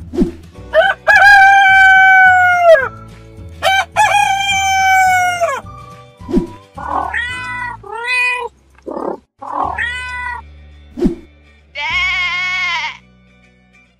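Cartoon animal sound effects over background music: a rooster crows twice, then come several short falling animal calls, and a sheep bleats near the end.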